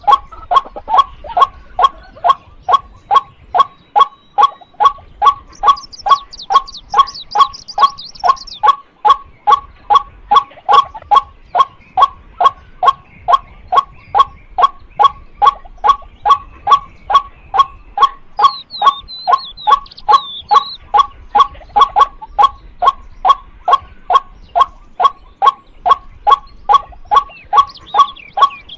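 Female white-breasted waterhen calling a steady, rhythmic string of short 'kwak' notes, about two a second. Higher chirps from another bird come in briefly twice.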